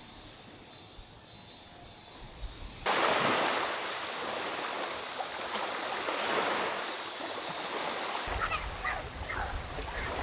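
Ocean waves washing onto the shore, cutting in suddenly about three seconds in over a steady high insect drone; near the end a low wind rumble on the microphone joins.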